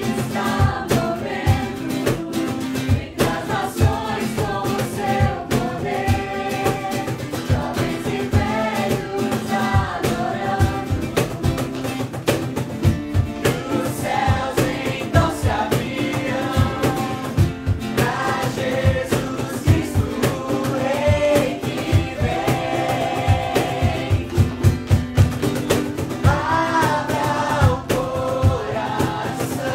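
Voices singing a Christian song together over instrumental accompaniment with a steady percussive beat.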